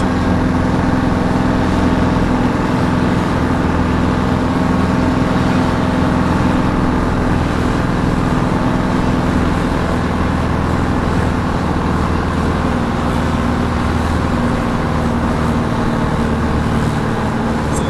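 A diesel tractor engine running loud and steady, with no breaks.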